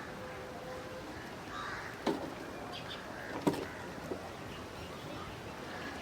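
Crow cawing: a few short calls, the sharpest about two seconds and three and a half seconds in, over a steady outdoor background.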